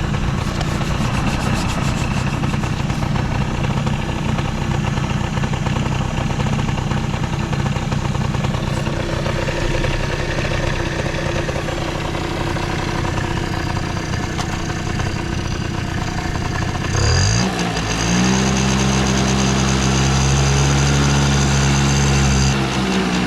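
Suzuki Hi scooter's small two-stroke engine idling steadily, then revved up about two-thirds of the way through and held at higher speed for about five seconds before dropping back near the end. It runs with no abnormal noise.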